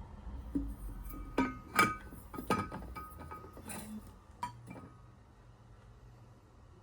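Glass or ceramic kitchenware clinking: about six sharp knocks, each with a brief ring, which thin out after about five seconds.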